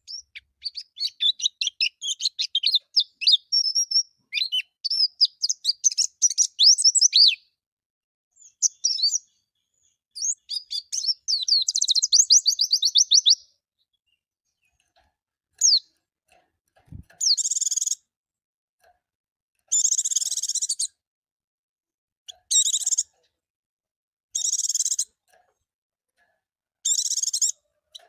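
Pleci (white-eye) song: a fast, high twittering run of quick rising and falling chirps for the first half. After a short pause come a string of harsh, buzzy bursts, each about a second long, repeating every two to three seconds.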